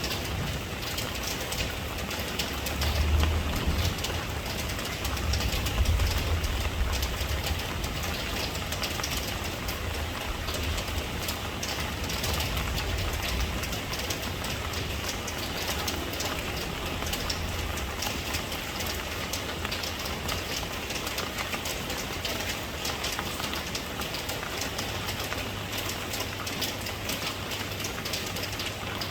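Steady rain falling, an even hiss of drops. A deeper low rumble runs under it through roughly the first half, then fades.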